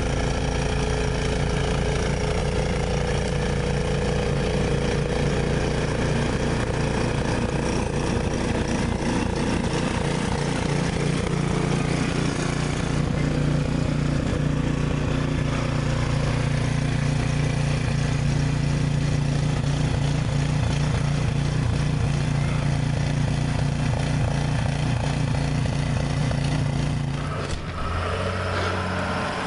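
An engine running steadily at an even speed. Near the end its note drops and changes to a different, lower drone.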